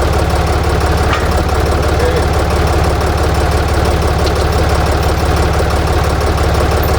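Ditch Witch trencher-backhoe's air-cooled Deutz diesel engine idling steadily, with an even, rapid firing beat.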